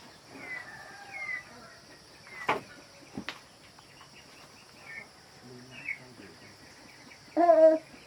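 Birds chirping in short falling notes, with two sharp knocks a little under a second apart. Near the end comes a louder, short, wavering call.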